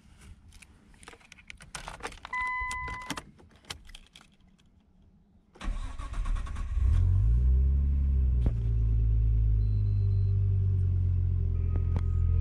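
Key clicks and a brief warning beep, then the Nissan Skyline R34 25GT Turbo's RB25DET turbocharged straight-six cranks and starts about five and a half seconds in. Its revs flare up and fall back, and it settles into a steady idle.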